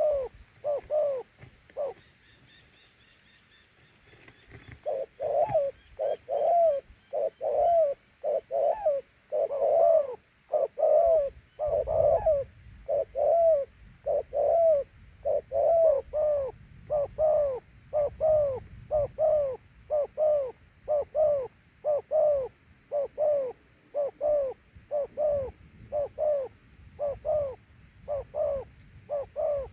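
A dove giving its two-note 'gù' bowing coo over and over in quick succession, about one and a half coos a second, with a pause of about three seconds shortly after the start.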